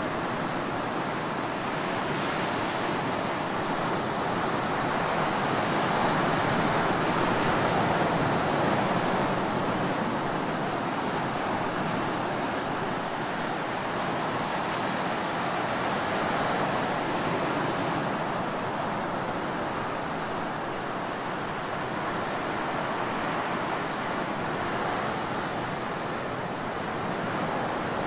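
Ocean surf breaking on a beach: a continuous wash of waves that swells gently, loudest a few seconds in and again past the middle.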